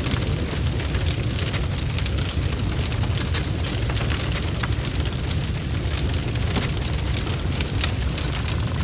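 Wood fire crackling, with many sharp pops and snaps over a steady low rumble of the flames.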